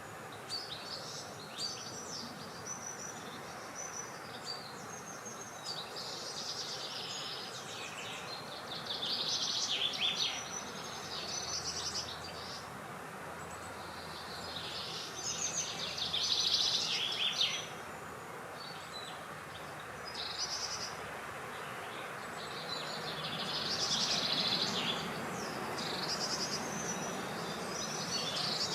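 Outdoor birdsong: several birds singing repeated short phrases, with busier bouts about a third of the way in, past the middle and near the end. Under the song is a steady, even background hiss.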